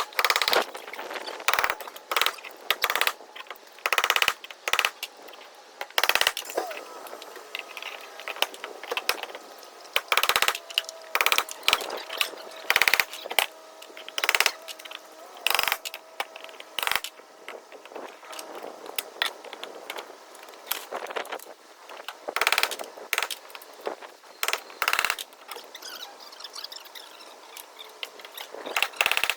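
Irregular sharp knocks and clanks from construction work, some with a brief metallic ring, coming every second or two.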